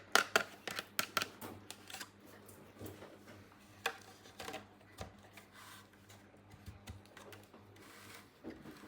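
Small toy pieces being handled close to the microphone: a quick run of light clicks and taps in the first two seconds, then sparser ticks and faint rustling.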